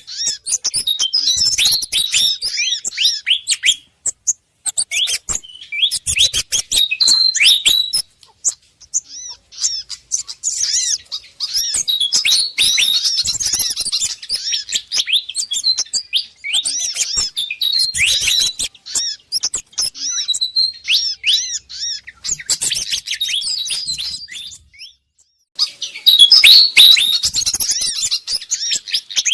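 A bird-lure recording of agitated Malaysian pied fantail calls mixed with other small birds' calls. It is made of rapid, high chirps and short sweeping notes in runs of a few seconds, with brief breaks about 4, 8 and 25 seconds in.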